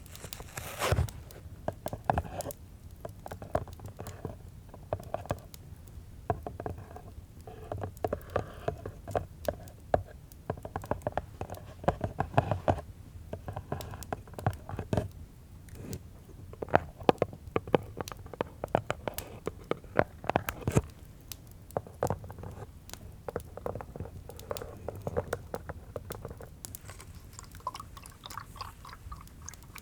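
ASMR tapping: fingers tapping quickly and irregularly on hard objects, several small taps a second.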